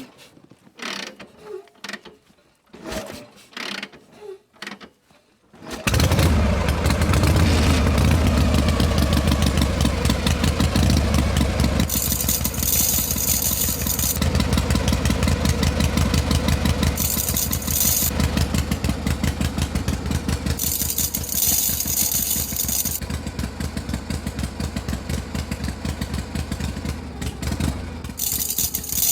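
A few faint clicks and knocks, then about six seconds in an engine starts and runs at a steady, pulsing idle, with a hiss that comes and goes above it several times.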